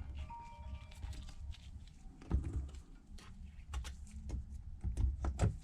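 Irregular small clicks and taps of a thin plastic pry tool working under a tablet's LCD panel to lift it from the frame, with a few heavier knocks about two seconds in and near the end.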